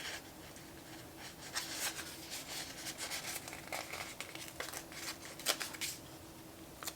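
Paper rustling and crinkling as a sticker is peeled from its backing sheet and pressed onto a planner page, in a string of short crackles over a few seconds.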